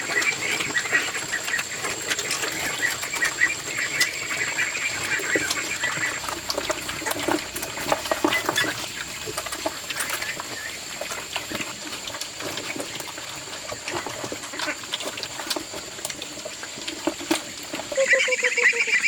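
Ducks quacking in bursts over the first few seconds and again near the end, with scattered clicks between and a thin steady high whine underneath.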